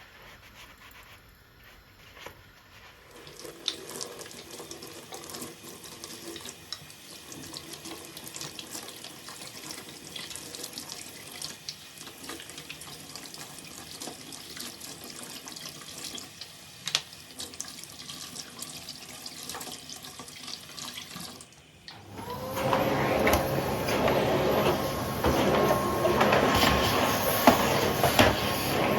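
Kitchen tap running into a sink, with scattered light knocks of things being handled under the water. The flow becomes much louder about three-quarters of the way through.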